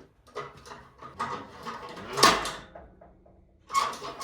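Metal creaks, scrapes and knocks from a cheap Harbor Freight engine hoist and jack as an engine is lowered into a truck. The loudest is a sharp clank about two seconds in. The noise is taken to be the cheap tool's own racket, not a fault in the engine.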